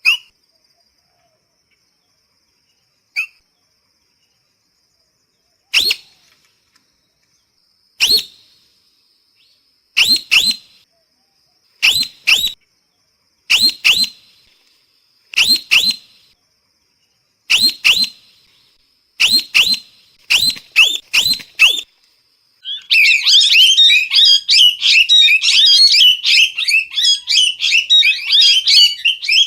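Parrot giving loud, sharp calls, at first single and a few seconds apart, then in pairs about every two seconds that come faster. About 23 seconds in they break into a continuous rapid chatter of calls.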